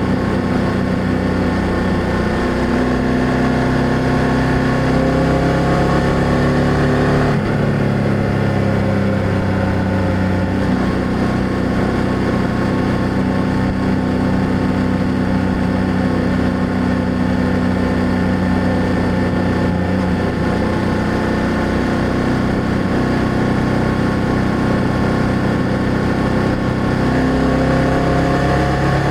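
BMW F800GS parallel-twin motorcycle engine under way: the revs climb for several seconds, drop suddenly at a gear change about seven seconds in, hold fairly steady while slowly easing, then climb again near the end.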